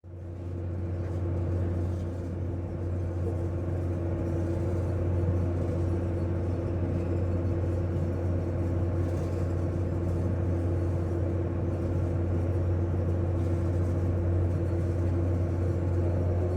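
Steady low engine rumble of a vehicle under way, with a constant droning hum over it, starting abruptly.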